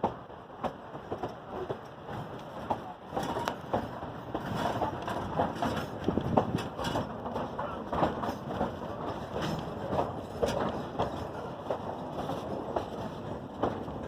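Durango & Silverton narrow-gauge train running, a steady rumble with irregular clacks and knocks of wheels and cars on the track.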